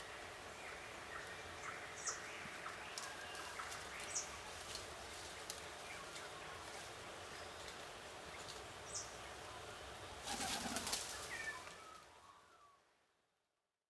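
Birds outdoors giving short, high chirps about every two seconds over a steady background, with small scattered clicks. About ten seconds in comes a brief flurry of wing flaps, and the sound then fades out.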